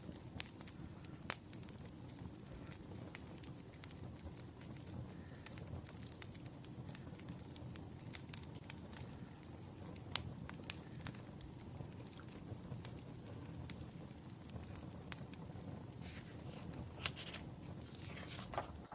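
Wood fire crackling: irregular sharp pops and snaps over a steady low rush of the burning logs.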